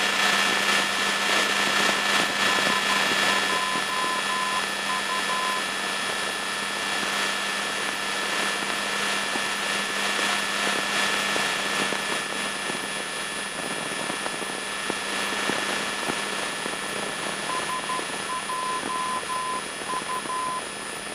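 Cessna 152's four-cylinder Lycoming engine and propeller droning steadily in the climb after takeoff, the overall level easing down slowly. Twice, a short run of high beeps in a Morse-like dot-dash pattern sounds over the drone.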